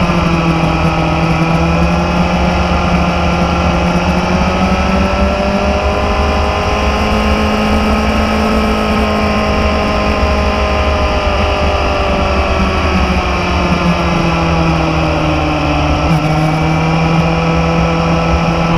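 Motorcycle engine running steadily on the move, its pitch drifting slowly up and down with small changes in speed.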